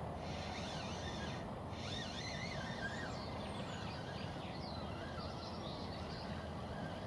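Songbirds singing and chirping in bursts of warbling notes over a steady low background rush.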